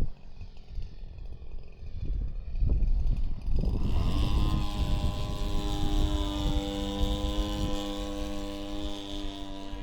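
Low rumbling for the first few seconds, then the RC Piper Cub's G26 gas engine rises in pitch about three and a half seconds in and holds a steady high-revving drone.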